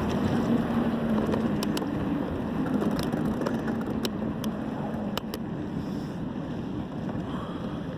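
Steady wind rush on the microphone of a camera riding on a moving road bicycle, with a faint hum and a few sharp clicks scattered through it.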